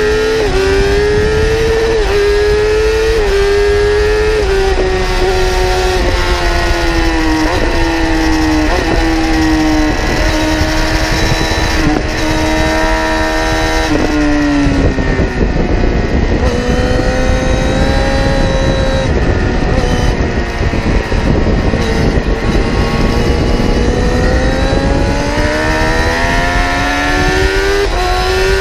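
Kawasaki ZX-10R inline-four engine on full throttle, its pitch climbing and stepping back at each upshift. About halfway through the pitch drops sharply as the throttle shuts for braking, then climbs steadily again near the end as the bike accelerates. Heavy wind rush runs throughout.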